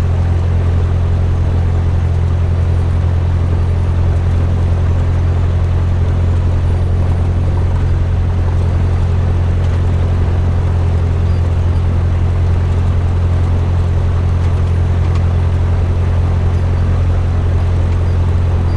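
Cessna 172M's four-cylinder Lycoming O-320 engine and propeller running at a steady low-power idle, a constant low drone.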